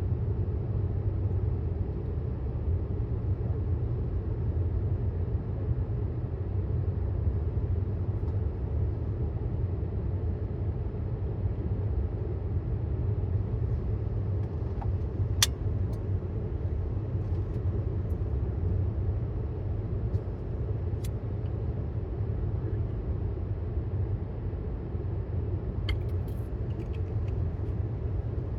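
Steady road and tyre rumble inside the cabin of a 2018 Tesla Model S 75D on the move, an electric car with no engine note, with a few sharp faint clicks about halfway through and near the end.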